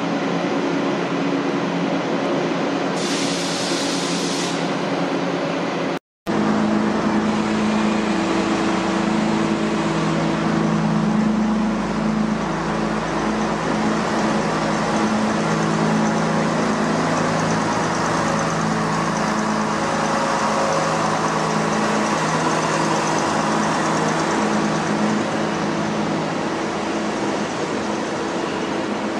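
Train at a station running steadily, with a low hum of several droning tones that shift slightly in pitch and a short hiss about three seconds in. The sound cuts out for a moment about six seconds in, then the steady hum carries on.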